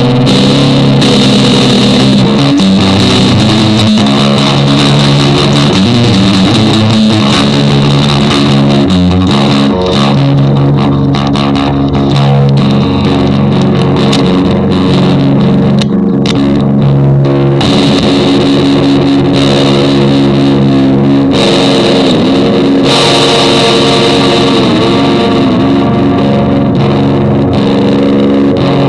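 Loud, continuous instrumental music with a guitar played through effects and distortion, its held notes and chords changing every few seconds.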